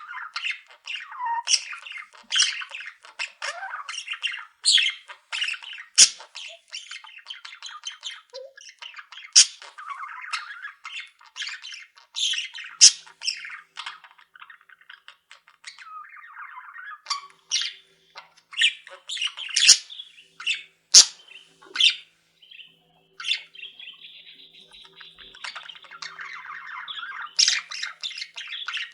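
A mixed flock of pet budgies, canaries and zebra finches calling together. It is a busy, continuous chatter of many short calls, with louder sharp calls standing out every second or two.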